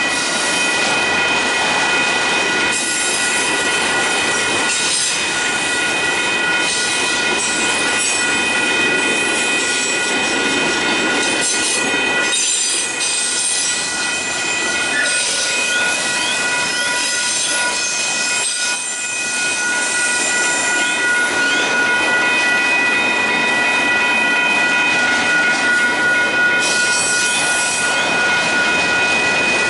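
Freight train of autorack cars rolling steadily past at a grade crossing: a continuous rumble and clatter of wheels on rail, with steady high-pitched tones held over it.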